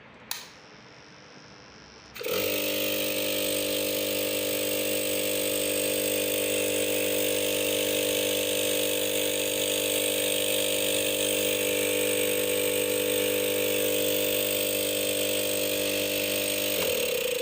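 Refrigerator compressor starting about two seconds in and running with a steady electric hum and hiss, then switched off near the end, sagging in pitch as it winds down.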